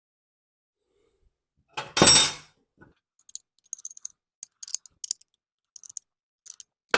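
Hands working on a small-engine carburetor and its metal parts. One loud, short clatter comes about two seconds in, then a scattered run of light metallic clicks and ticks, with a sharper click near the end.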